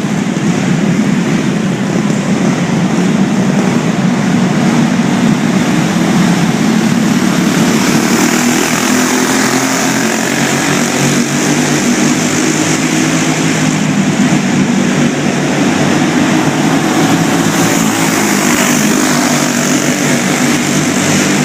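Go-kart engine running at speed, a steady buzzing small-engine note that shifts slightly in pitch.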